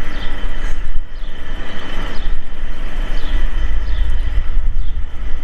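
Wind buffeting the microphone outdoors, a loud uneven rumble that swells and drops with the gusts.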